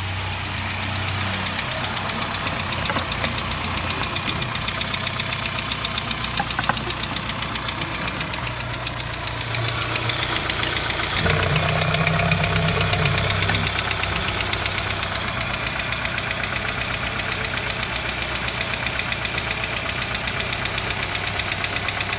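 VW Passat B3's 1.8-litre RP four-cylinder petrol engine running at idle. About ten seconds in it is revved up and held for a few seconds, then drops back to a steady idle.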